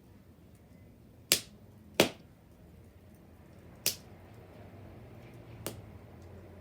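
Wood burning in a bonfire, popping: four sharp pops, the two loudest about a second and a half and two seconds in, a third near four seconds and a weaker one near the end.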